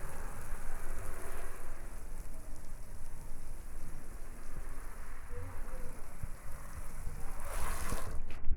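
Water spraying onto a car's body: a steady rain-like hiss that gets louder near the end.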